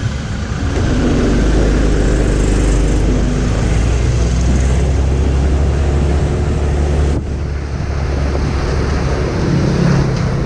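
Motorcycle engine running on the move, with wind and road noise over a steady low hum. The sound drops suddenly about seven seconds in, then picks up again.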